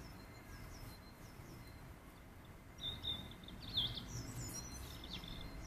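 Small wild birds chirping in short high calls, busiest about three to four seconds in, over a faint steady background noise.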